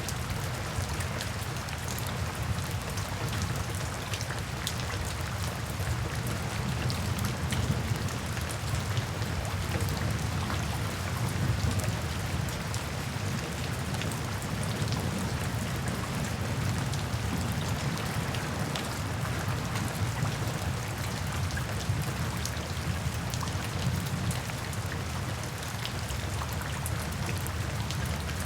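Steady rain falling, with the ticks of many individual drops over a continuous low rumble.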